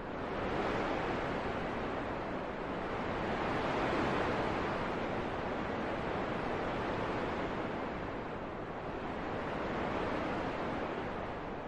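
Wind blowing steadily with slow gusts: a rushing noise that swells twice and eases off near the end.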